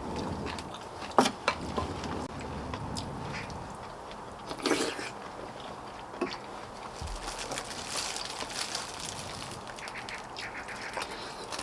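Someone eating chicken soup: chewing and slurping with scattered clicks, a sharp click about a second in and a short pitched mouth noise near the middle.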